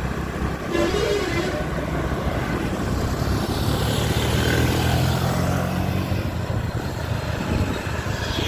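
Road vehicle engine running while travelling along a road, with engine and road noise swelling louder in the middle, about four to six seconds in.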